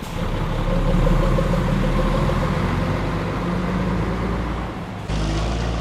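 A coach's engine running with steady road noise while the vehicle is under way. Near the end the sound cuts abruptly to a steadier low engine hum.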